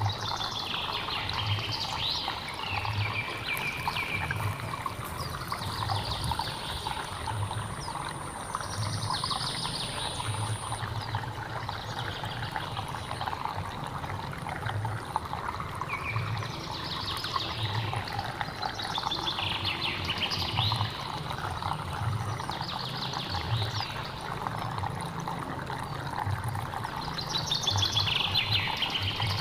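A hill stream trickling and burbling steadily over rocks, with a bird singing short descending phrases every few seconds, loudest near the end. A thin high whine, typical of an insect, runs through the first part.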